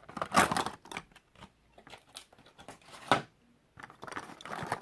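Plastic toy packaging being worked at by hand to free a stuck diecast car: bursts of crackling, scraping and clicking, with the loudest near the start, about three seconds in and near the end.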